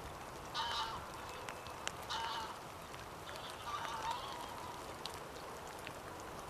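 Wild waterfowl calling: three short calls about a second and a half apart, the last one longer, over a steady background hiss.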